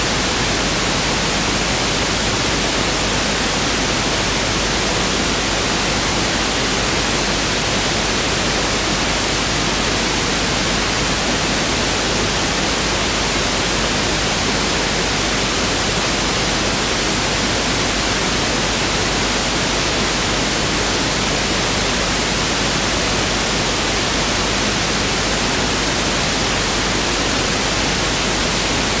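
Pink noise test signal (1/f noise): a steady, even hiss that does not vary.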